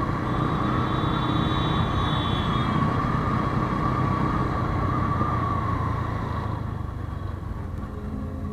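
Steady vehicle and traffic noise from travelling along a city road, a continuous rumble that eases a little in the last two seconds.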